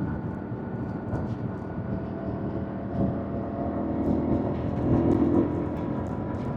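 2025 Yamaha MT-07's 689 cc parallel-twin engine running under way, heard from on the bike. The engine note swells louder about four to five seconds in.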